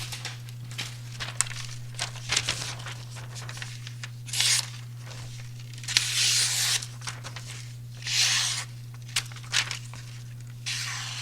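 Freshly sharpened knife blade slicing through paper in several strokes, with crinkling and rustling of the sheet in between: a sharpness test of the new micro bevel. A steady low hum runs underneath.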